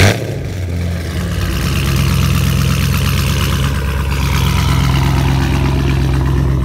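Car engine catching with a short loud burst right at the start, then idling steadily.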